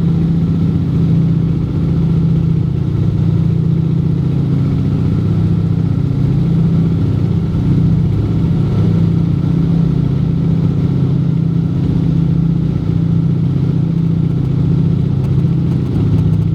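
Junkers Ju 52 trimotor's three radial engines droning steadily in cruise flight, a loud even low hum with no change in pitch.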